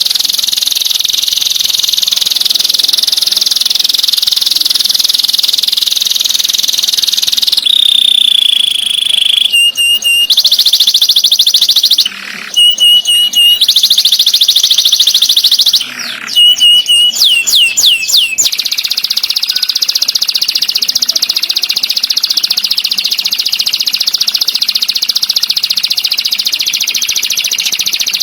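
Songbird song for bird training: a very fast, continuous buzzing trill. About eight seconds in it breaks for a held whistle, bursts of short repeated chips, and near the middle a quick series of falling whistled notes, before the trill resumes.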